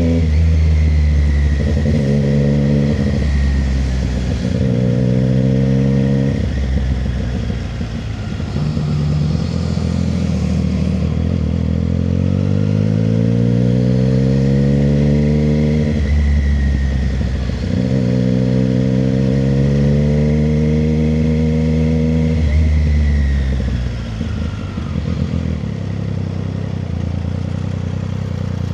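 Triumph Street Triple 765 RS's inline three-cylinder engine under way: its note climbs and breaks in steps as the bike accelerates and shifts up through the gears, with a long rising pull about halfway through. Near the end the note falls away and gets quieter as the throttle closes.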